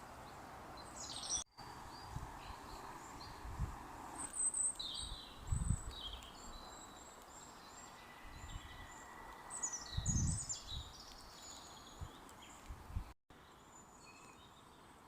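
Woodland ambience with small birds chirping and singing in short high phrases, over a faint steady background hiss. A few dull low thumps break in, and the sound drops out for an instant twice where it has been cut.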